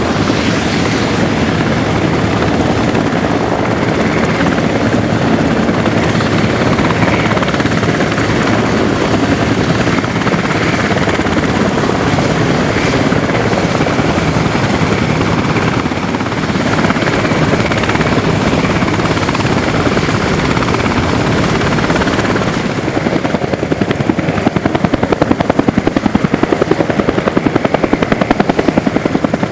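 Helicopter running with its rotor and turbine, a steady loud noise. In the last several seconds the rotor beat becomes a stronger, regular pulsing as it grows louder.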